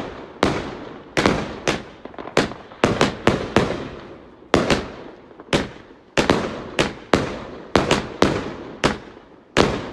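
Fireworks going off in quick succession: about twenty sharp bangs at an uneven pace, some coming in close clusters of two or three, each dying away in a short echoing tail.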